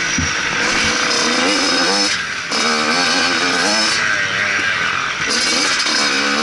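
Motocross bike engine running hard, its pitch rising and falling as the throttle is worked. The throttle is briefly closed, with a short drop in level about two seconds in.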